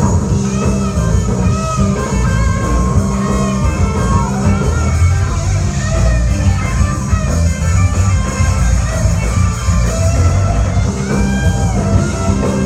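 Rock music: electric guitar playing bending lead lines over bass and drums.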